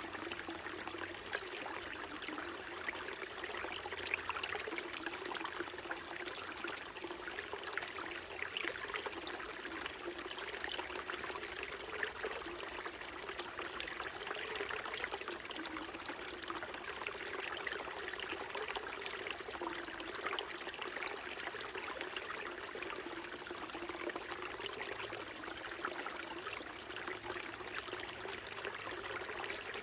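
Small mountain brook running steadily: a constant wash of flowing water full of fine splashes, with a low gurgling note beneath it.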